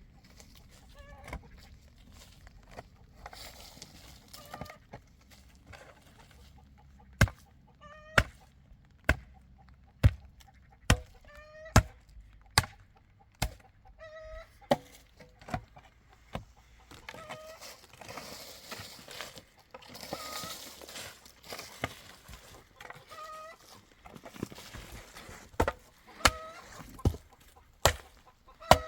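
Chickens clucking, with a run of sharp knocks about one a second starting about seven seconds in.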